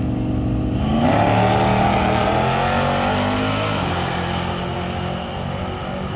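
Car engine revving: its pitch climbs quickly about a second in, holds high for nearly three seconds, then drops back to a lower steady running.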